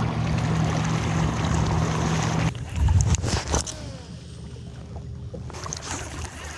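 A boat motor running with a steady low hum that cuts off abruptly about two and a half seconds in, followed by a few sharp knocks and clicks.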